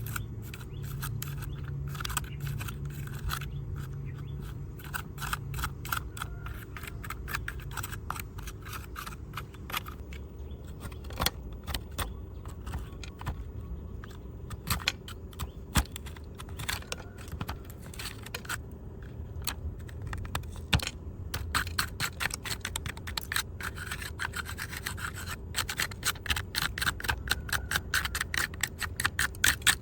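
Scraping and rubbing on a small diecast model car as it is cleaned of mud: a dense run of quick little clicks and strokes, getting busier and sharper toward the end.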